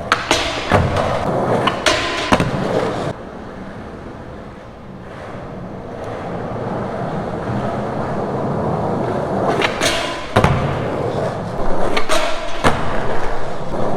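Skateboard rolling on concrete with sharp board clacks and landing knocks: several knocks in the first couple of seconds, a stretch of wheel rolling that gradually grows louder, then more knocks about ten seconds in and again near the end.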